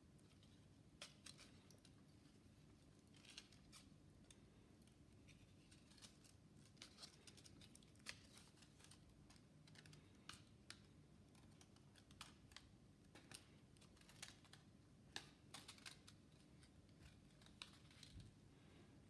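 Near silence: faint, irregular small clicks and scratches over a low steady hum.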